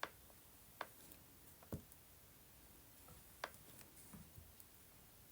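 Near silence broken by four faint, sharp taps at irregular intervals of about one to two seconds, with a few softer ones near the end: a soldering iron tip pressed down onto eco-dyed textile to burn holes in it.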